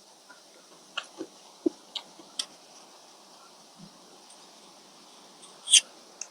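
Close-up eating sounds: scattered wet mouth clicks and lip smacks from someone chewing a mouthful of rice noodles in fish curry, with one louder, hissier slurp or crunch near the end.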